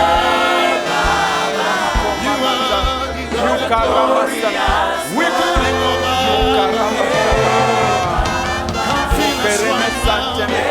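Slow church worship music: sustained keyboard chords and held bass notes over a steady low beat, with voices singing and praying in tongues over it.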